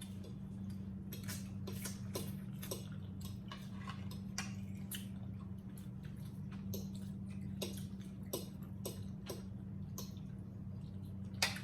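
Irregular small clicks and smacks of people eating roasted chicken by hand, over a steady low hum.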